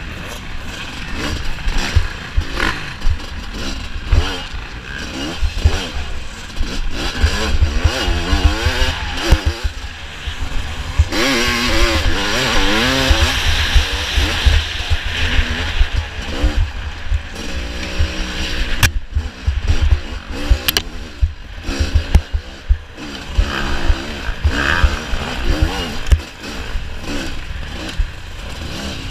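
Off-road racing motorcycles revving up and down as they ride past, the engine pitch rising and falling repeatedly.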